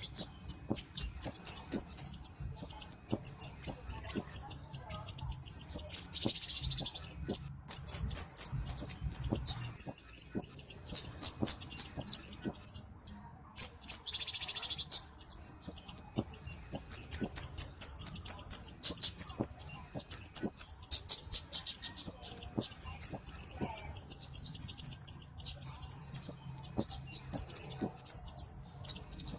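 Flowerpecker (cabe-cabean) calling: long strings of thin, very high ticking notes, about ten a second, with short breaks.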